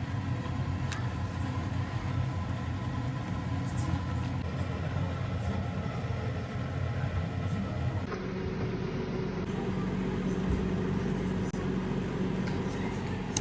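Steady low rumble of a vehicle in motion, whose tone shifts about eight seconds in.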